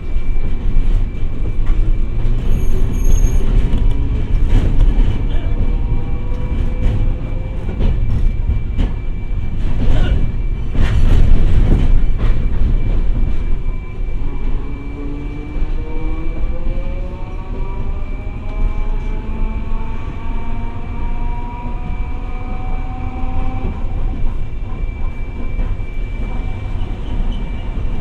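Hiroden 700 series tram No. 701 running, heard from inside the car: the traction motors whine, rising in pitch as it picks up speed in the first few seconds and again from about 14 s to 24 s. A run of wheel knocks over the rails comes around the middle.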